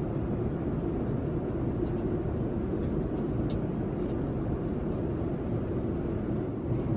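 Steady airliner cabin noise inside a Boeing 787-9: an even low rush of engine and airflow noise with a faint steady hum and a few small clicks.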